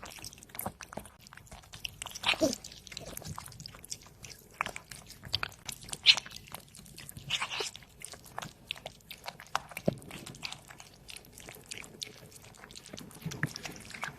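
Orange cat chewing and crunching food up close: irregular wet bites and crunches with sharp clicks.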